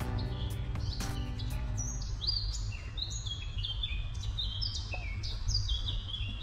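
Background music with held notes and a few struck notes that stops about two seconds in, then a bird singing a series of short, high whistled notes that jump from pitch to pitch, over a steady low rumble.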